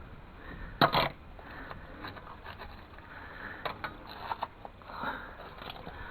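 Hands-on handling noises: one sharp knock or scrape about a second in, then a few light clicks, with a person sniffing between them.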